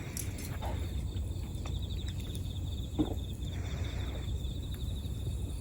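Insect trilling steadily in a fast, even pulse, over a low rumble, with a single knock about three seconds in.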